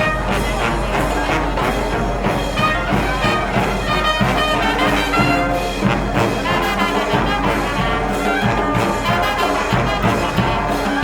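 Procession band music: brass led by trumpets and trombones over a regular drum beat.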